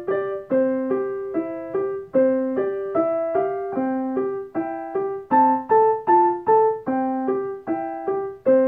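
Piano or electric keyboard playing a simple melody at a steady, even pace, about two notes a second, each note struck and then fading.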